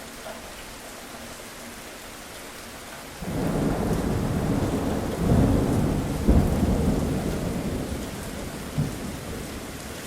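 Steady rain falling, with a thunderclap that breaks in suddenly about three seconds in, rumbles with a sharp crack near the middle, and slowly dies away.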